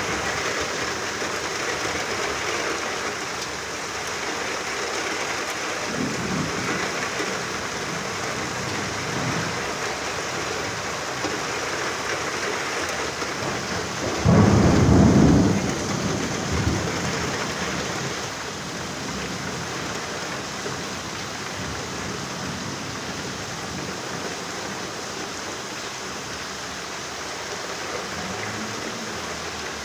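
Steady heavy rain, with a loud low rumble of thunder lasting about two seconds halfway through and fainter rumbles at other points.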